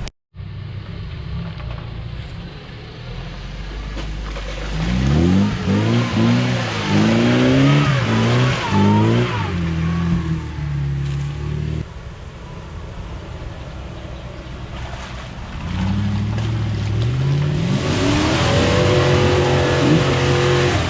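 UAZ Bukhanka van's V8 engine revving hard under load off-road. Its pitch climbs and drops again and again in two long bursts, about five seconds in and again from about sixteen seconds, with lower steady running between them.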